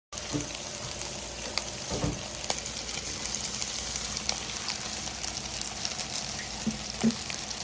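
Food sizzling as it fries in oil in a pan: a steady hiss with frequent small crackles and pops.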